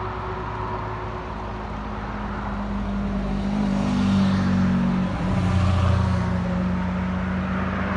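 Road traffic: motor vehicles passing on the road with a steady engine hum, growing louder towards the middle as one or two vehicles go by.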